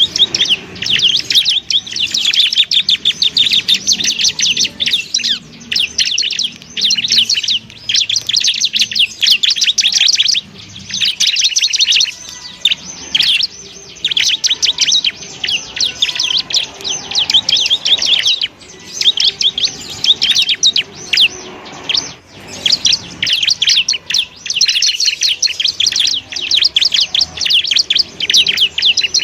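Bar-winged prinia (ciblek) singing: long, rapid rattling trains of high chirps, repeated in bursts with brief pauses between them.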